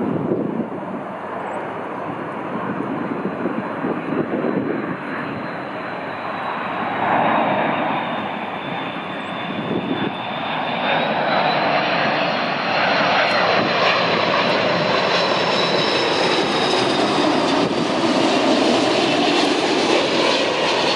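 Large jet airliner on approach to land, its engines' rumble and high whine growing louder as it comes closer.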